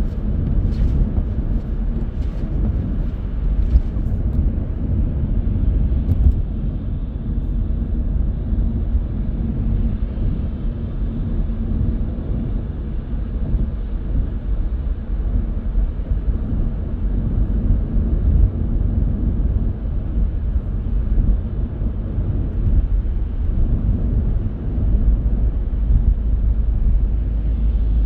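Car driving along a road: steady low rumble of road and engine noise, with a few faint clicks in the first few seconds.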